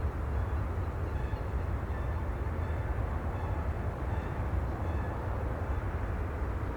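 Steady, deep rumbling ocean ambience: the even wash of sea and wind, with a few faint short high chirps in the middle.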